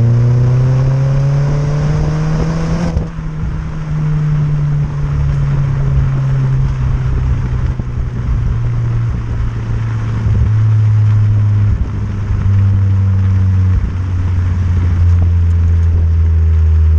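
Volkswagen Golf Mk4 GTI engine through an aftermarket cat-back exhaust, revving up for about three seconds. The revs then drop sharply, and the car settles into a steady exhaust drone with small shifts in pitch, the revs falling away at the very end.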